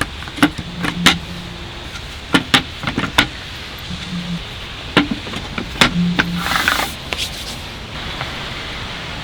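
A series of sharp clicks and knocks, some in quick pairs, and a brief rustle about six and a half seconds in, over a steady rushing background.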